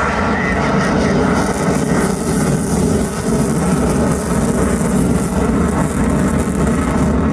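Twin jet engines of an F/A-18 Super Hornet running loud and steady as it makes a slow, high nose-up pass.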